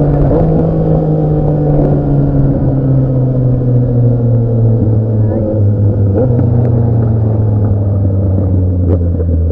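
Motorcycle engine running steadily, its note falling slowly in pitch as the engine speed eases off.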